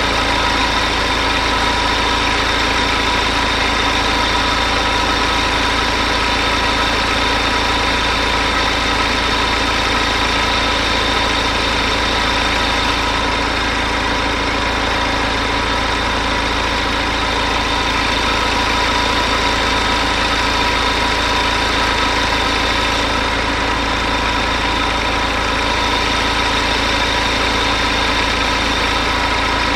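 BMW N47 four-cylinder diesel engine idling steadily, warm at its operating temperature of about 88 °C with the thermostat open.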